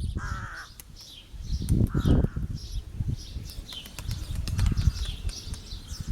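Wind buffeting the microphone in gusts, with high short bird chirps repeating about twice a second and a few sharp clicks.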